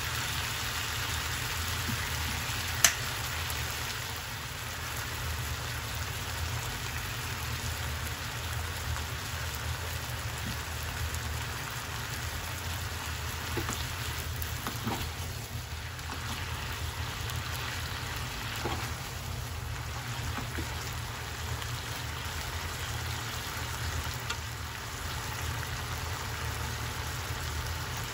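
Pork slices and shiitake mushrooms sizzling steadily in a frying pan with soy sauce, a crackling patter like rain, over a low steady hum. A single sharp click about three seconds in, and a few light taps of chopsticks against the pan midway through.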